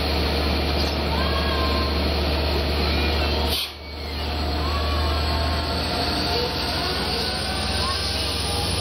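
An LIRR train's DM30AC diesel locomotives running with a steady low drone. The sound drops out briefly about three and a half seconds in.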